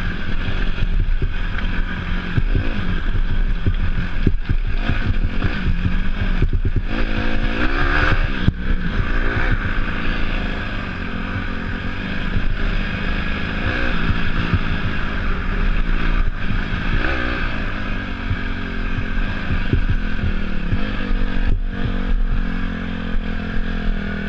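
Dirt bike engine running on and off the throttle, the pitch rising and falling in places, with frequent short knocks and rattles.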